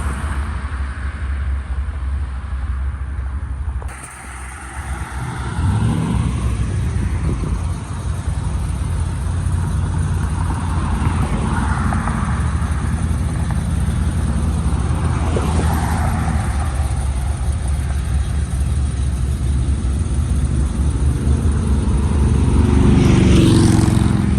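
Car engines idling with a steady low rumble; near the end one engine revs, its pitch rising.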